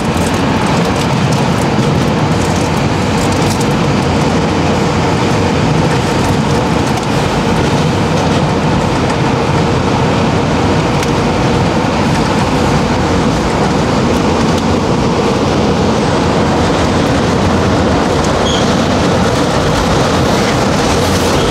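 Car-carrying shuttle train running through a rail tunnel, heard from a motorhome on an open-sided wagon: a loud, steady rumble with a faint steady hum, rough rather than smooth.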